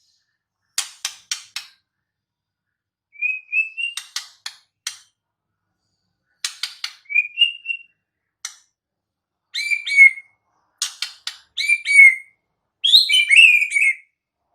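White-rumped shama (murai batu) singing: short phrases of sharp clicking notes mixed with whistled notes, delivered in about six bursts with brief pauses between them.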